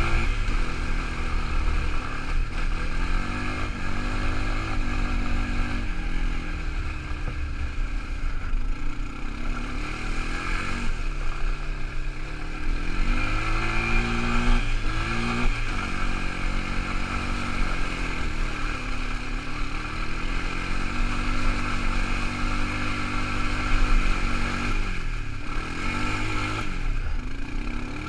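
Quad bike engine running under way, its pitch rising and falling again and again as the throttle is opened and eased off, with deeper drops in revs twice.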